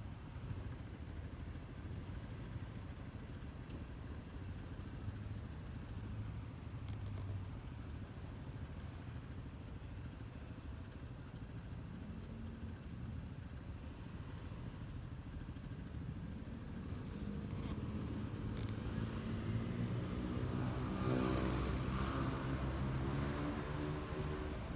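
Honda ADV 150 scooter's single-cylinder engine running under way, a steady low rumble; about twenty seconds in the engine note becomes clearer and louder, then eases slightly near the end.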